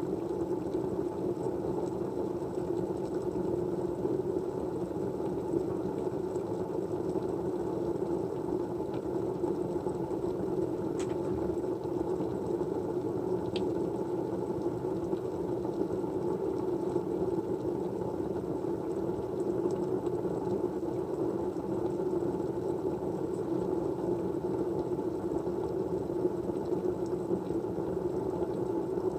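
Steady, even low-pitched white-noise hum with no rhythm or change, and two faint ticks in the middle.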